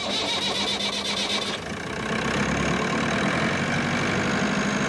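Car engine starting: about a second and a half of rapid starter cranking, then it catches and runs steadily.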